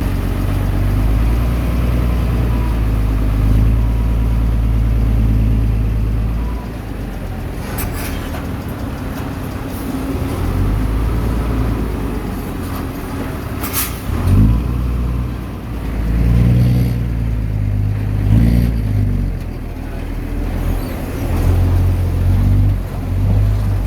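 Bulldozer's diesel engine working under load, its note rising and falling as it pushes soil. Two sharp clanks stand out, about six seconds apart.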